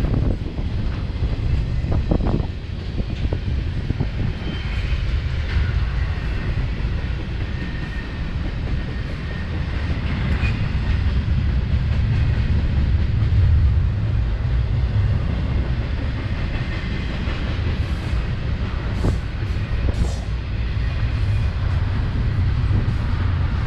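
Intermodal freight train rolling past: a steady low rumble of steel wheels on rail, with clicks and clatter as the wheels cross rail joints and faint high squeals.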